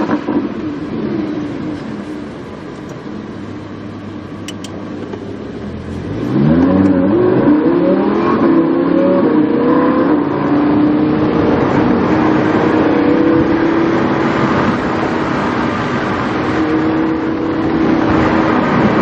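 Lamborghini Huracán's V10 engine through a PowerCraft exhaust, heard onboard: it runs quietly at first, then about six seconds in it gets much louder as the car accelerates hard, its pitch climbing. After that it settles into a steady drone at speed.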